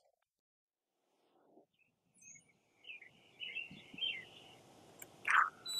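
Outdoor background with birds chirping in a run of short high calls, after a second or so of near silence, and one louder short sound near the end.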